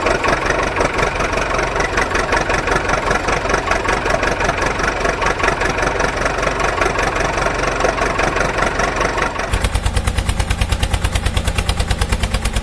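Engine running, starting abruptly; about three quarters of the way in it settles into an even, fast chugging of roughly nine beats a second.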